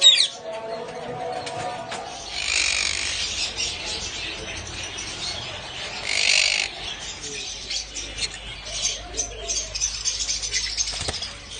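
Caged small parrots squawking and chirping, with harsh screeches about two seconds in and again around six seconds, then a run of short chirps and clicks.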